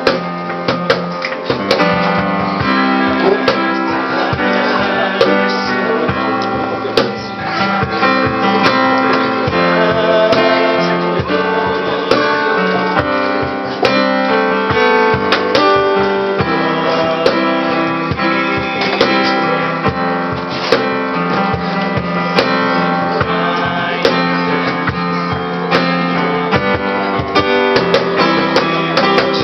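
Live acoustic music: a strummed acoustic guitar with a cajón keeping the beat.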